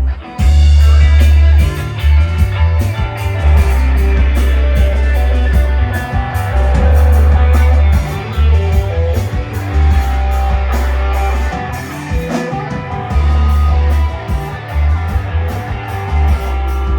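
Live rock band playing an instrumental stretch without vocals: guitar over a loud, heavy bass line and drums. The band drops out for a moment right at the start, then comes back in hard.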